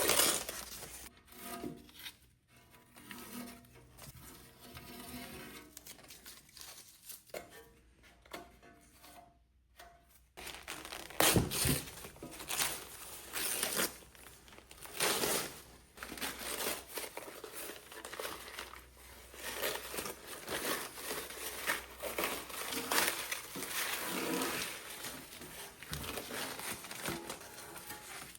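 Irregular crinkling, rustling and tearing handling noises, like paper or tape being worked by hand, with a sharp knock about eleven seconds in.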